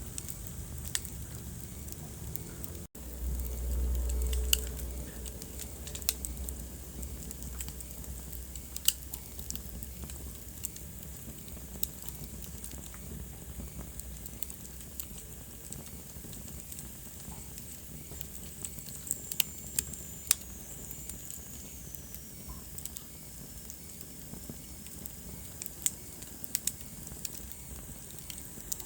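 Wood fire crackling in a fireplace: irregular sharp pops and snaps over a steady hiss of flame. A low rumble swells for a few seconds near the start, and a faint high whistle slides down in pitch about two-thirds of the way through.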